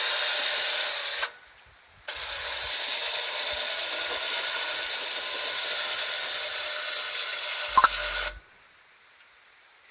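Battery-powered electric winch running under remote control, its motor and gears whirring steadily. It stops about a second in, starts again about two seconds in and runs for some six seconds, with a short knock just before it cuts off.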